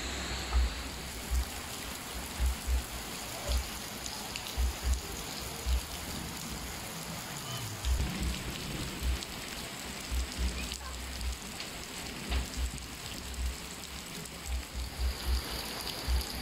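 Steady rain falling, an even hiss with scattered ticks of drops. Irregular short low thumps come through it every second or so and are the loudest sounds.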